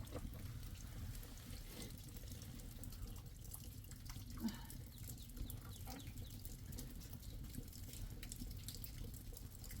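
Water running or dripping, with scattered small drips and ticks over a steady low rumble.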